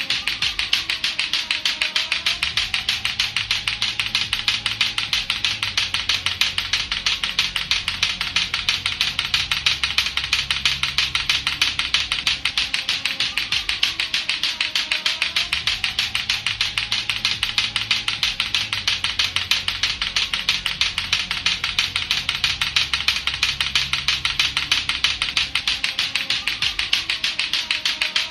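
Latto-latto clackers, two hard plastic balls on a string knocking together, clacking in a rapid, steady, unbroken run.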